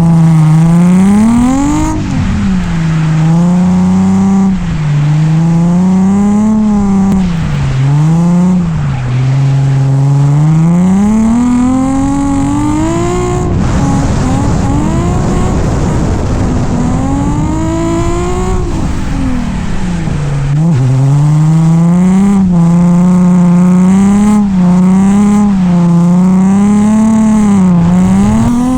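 Nissan 350Z's V6 engine being driven hard in a drift run, revving up and down continuously as the throttle is worked and let off. Tire noise swells about halfway through.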